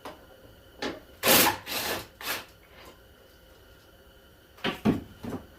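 Short scrapes and knocks of a socket wrench and car parts being handled while bolts come out: several in the first two and a half seconds, a few more near the end.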